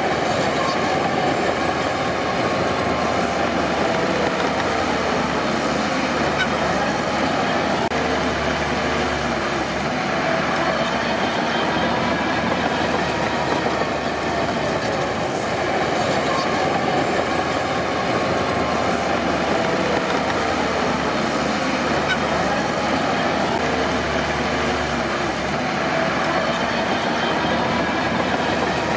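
Crawler bulldozer working, its diesel engine and steel tracks running steadily, with the engine pitch slowly rising and falling.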